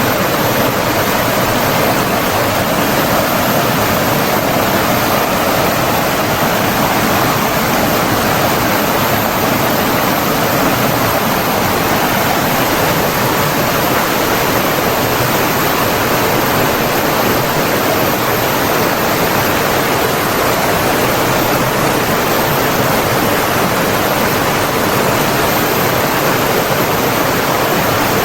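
Flowing stream water rushing steadily in a dense, even wash of noise.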